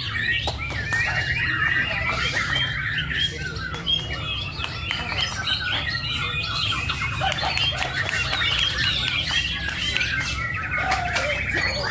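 A songbird calling in a rapid, unbroken run of harsh chirps and squawks, typical of a bird kept for song contests that is overexcited, with a steady low hum underneath.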